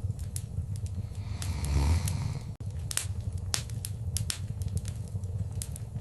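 Wood fire crackling: irregular sharp pops and snaps over a low, steady rumble of the flames, with a short gap in the sound about two and a half seconds in.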